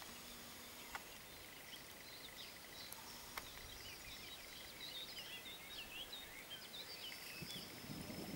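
Faint woodland birdsong: many short, quick chirps rising and falling in pitch, busiest in the middle, with two sharp clicks about one and three and a half seconds in.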